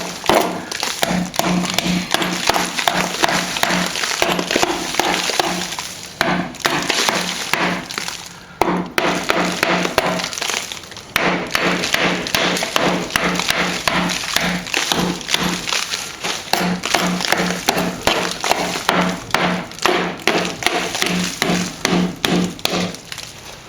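Hammer and chisel chipping out very hard cement plaster along a wall crack: quick ringing strikes, about three a second, with a few short pauses.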